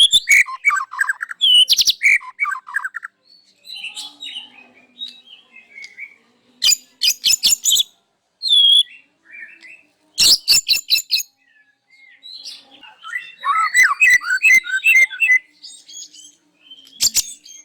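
White-rumped shama (murai batu) singing loudly in bursts, running through its repertoire of mimicked calls: warbled phrases alternate with rapid runs of sharp rattling clicks and short whistled notes.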